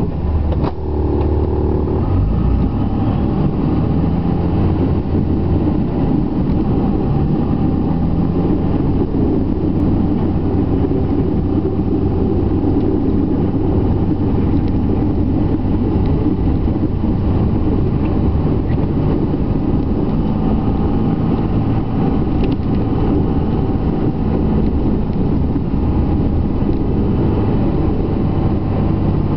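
Dodge pickup's Cummins straight-six turbo-diesel running under load while plowing heavy wet snow, its engine note rising and falling a little as it works.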